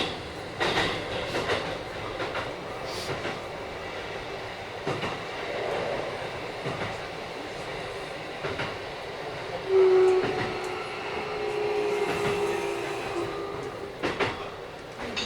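Running noise inside a Keikyu 1000 series electric train with Mitsubishi IGBT inverter drive, the wheels clicking irregularly over rail joints. About ten seconds in, a loud steady tone starts and holds for about three seconds.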